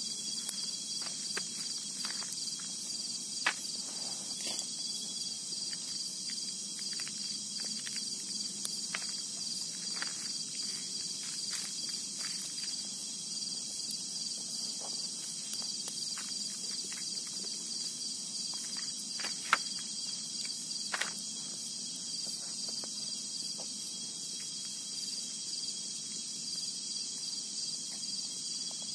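Steady chorus of crickets and other insects, a high trill with a fast even pulse. Scattered short clicks and snaps sound over it, two of them louder, about three seconds in and near the middle.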